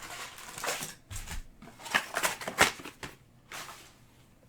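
Trading-card packaging being handled: cardboard blaster boxes and wrapped card packs rustling and crinkling, with sharp clicks and taps. It dies down after about three seconds.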